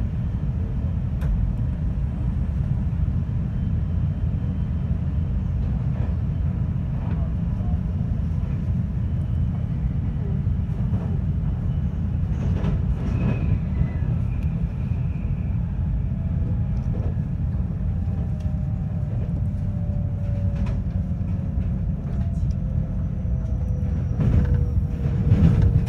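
Running noise of a JR West 521-series electric train heard from inside the carriage: a steady low rumble of wheels on rail with scattered light clicks. Over the last few seconds a faint whine slowly falls in pitch.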